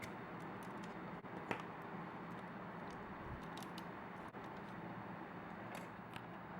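Scattered light clicks and taps of small hand tools and parts being handled while the model motorcycle is taken apart, over a steady background hiss. One sharper click comes about a second and a half in.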